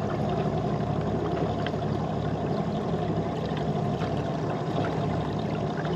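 Small boat's motor running steadily with a low hum, over the wash of water.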